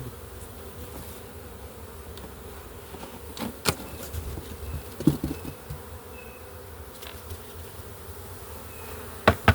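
Honey bee swarm buzzing steadily as the bees are disturbed during hiving, with a few sharp knocks from the box being handled, the loudest two near the end.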